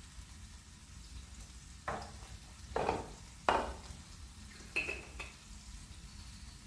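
Four short clattering scrapes of kitchenware in a little over three seconds; the last one rings briefly.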